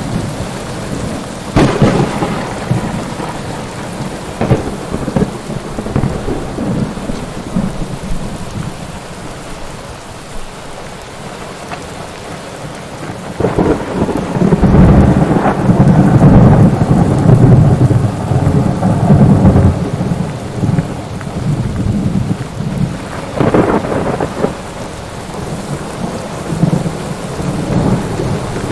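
Thunderstorm: steady rain with rolling thunder. A short peal comes a couple of seconds in, a long heavy rumble starts about halfway and lasts several seconds, and a shorter peal comes near the end.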